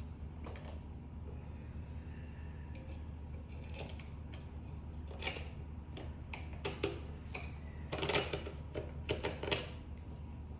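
Scattered sharp metallic clicks and clinks of hand tools and bike parts being handled, thickest in the second half, over a steady low hum.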